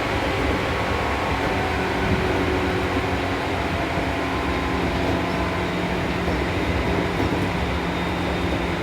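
Seibu New 2000 series electric train running between stations, heard from inside the car: a steady rumble of wheels on rail with faint steady motor tones.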